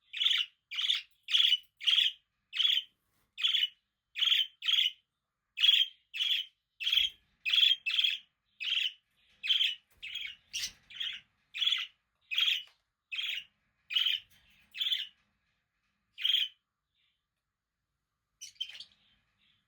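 Budgerigar (parakeet) calling: a steady run of short, sharp chirps, about two a second, that stops about three-quarters of the way through, followed by a couple of faint chirps near the end.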